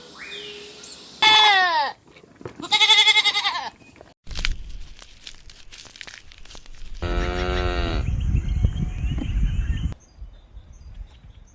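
Goats bleating: three separate bleats in a row, the first falling in pitch and the second wavering. Under the later part runs a loud low rumble of wind on the microphone.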